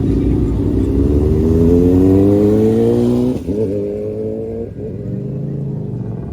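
Car engine accelerating hard. Its pitch climbs steadily for about three seconds, drops sharply, climbs again for about a second, then falls back to a lower, steadier note.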